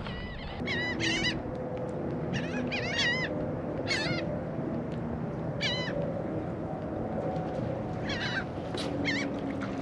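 A flock of seabirds calling over the water: many short, harsh calls that rise and fall in pitch, coming in quick clusters. These are the birds working over bait fish.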